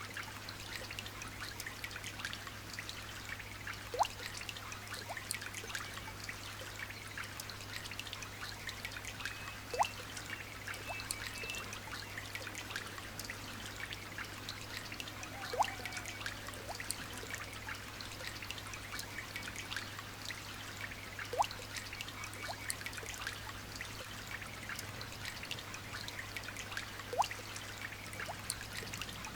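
Light rain pattering and trickling, full of small drop ticks. A single louder drop plinks with a quick rising pitch about every six seconds, over a steady low hum.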